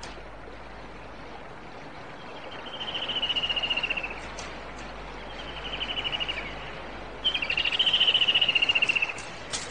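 A bird's rapid trilling calls in three phrases, each a second or so long and falling slightly in pitch, over a steady hiss.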